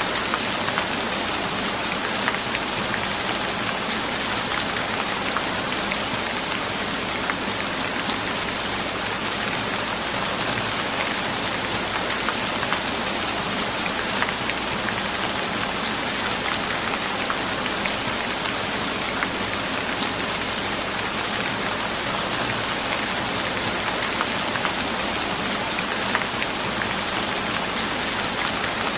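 Steady rain falling, a constant even hiss of drops with many small individual drop ticks on a surface.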